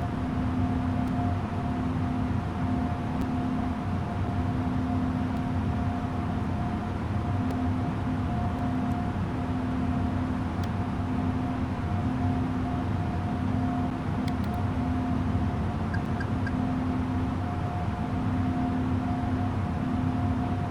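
Steady drone of an Airbus A330-900 jet airliner's Rolls-Royce Trent 7000 engines and airflow. A constant hum sits over a low rumble, with a lower tone that pulses on and off.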